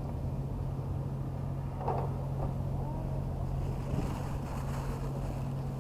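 A steady low engine hum, holding one pitch, with faint distant voices over it about two seconds in.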